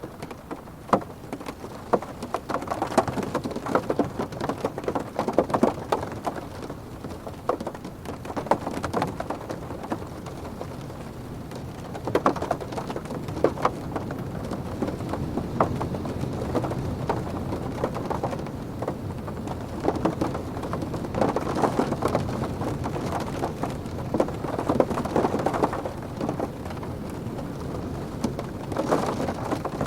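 Rain pattering on a car's roof and windscreen, heard from inside the cabin, with a dense spray of drops over a low rumble of wind. The downpour swells in gusts about twelve seconds in, again past the twenty-second mark and near the end.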